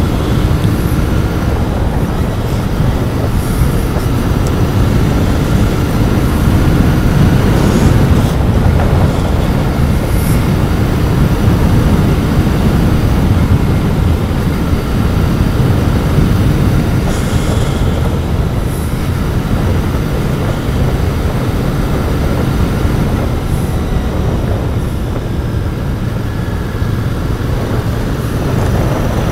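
Royal Enfield Continental GT 650's 648 cc parallel-twin engine through its stock exhaust, running steadily while cruising, heard from the rider's mic.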